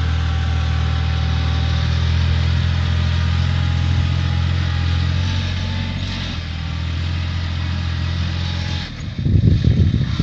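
Kubota B2530 compact tractor's three-cylinder diesel engine running steadily. About nine seconds in, the engine sound drops away and a second of loud, irregular low rumbling follows.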